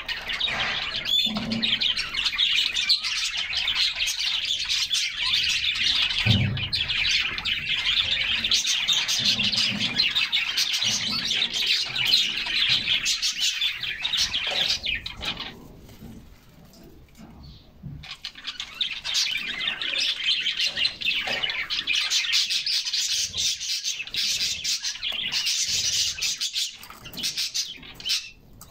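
Canaries singing: a dense, continuous run of trills and chirps that breaks off for about two seconds a little past the middle, then resumes.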